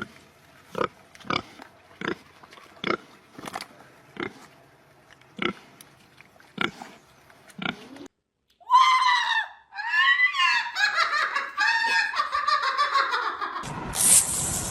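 An animal making short grunts, about one every half to one second, followed by a run of higher, wavering calls that rise and fall in pitch.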